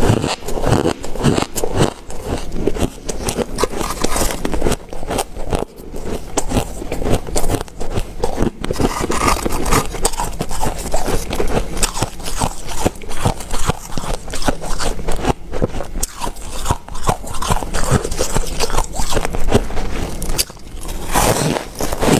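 Ice being bitten and chewed close to the microphone: a dense, continuous run of crunching and crackling.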